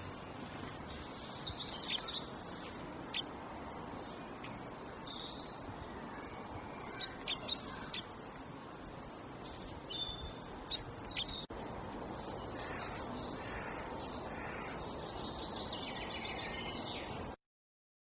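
Small birds chirping in short, sharp calls over a steady background rush, the chirps coming in scattered clusters. The sound cuts off suddenly near the end.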